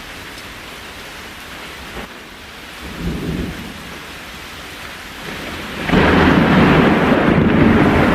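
Steady rain with rolling thunder: a short low rumble about three seconds in, then a much louder, deep thunder rumble breaks in near six seconds and keeps going.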